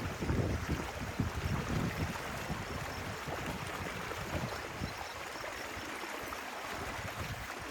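A small stream's water running steadily, with irregular low rumbles that are strongest in the first couple of seconds.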